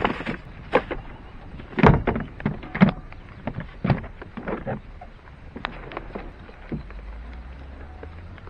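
Irregular knocks and thuds, some sharp, the loudest right at the start and around two and three seconds in, with a faint low hum coming in about two-thirds of the way through.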